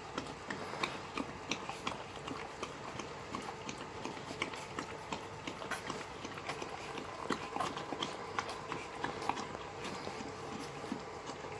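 Boxer puppies eating messily, a rapid, irregular run of small wet smacks and lapping clicks.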